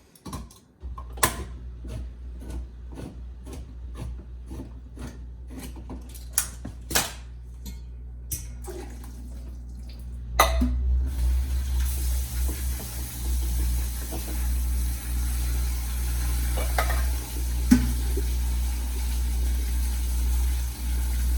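A run of evenly spaced sharp clicks, about two or three a second, for the first ten seconds or so. Then a kitchen tap runs steadily, with water splashing into the sink.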